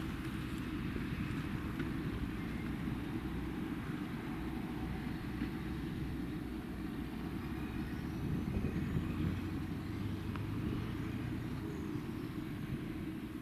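Diesel engine of heavy farm machinery running steadily, a low even drone with no big changes.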